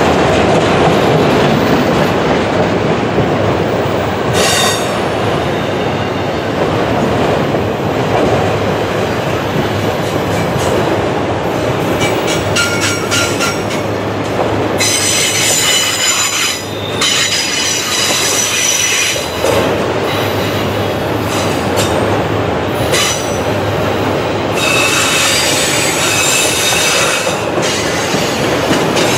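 Freight train of autorack cars rolling past close by: a steady rumble of wheels on rail, with high-pitched wheel squeal from the curve coming and going. The squeal is loudest in a stretch of a few seconds mid-way and again near the end.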